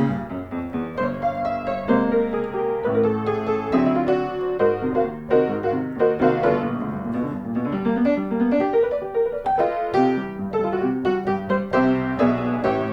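Background piano music: a steady run of quick notes with no pause.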